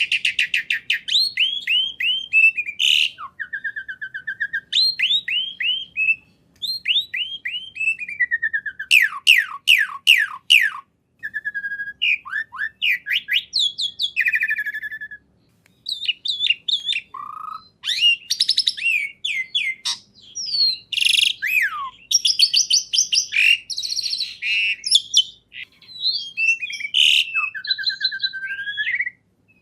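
A songbird singing a long, varied song of rapid repeated falling notes, trills and short whistled phrases, with brief pauses between bursts.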